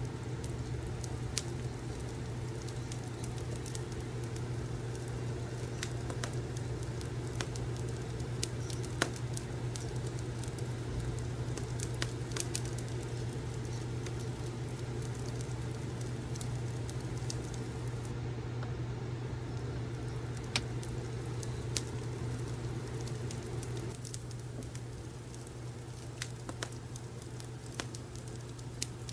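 Wood fire crackling: scattered sharp pops and snaps over a steady low hum.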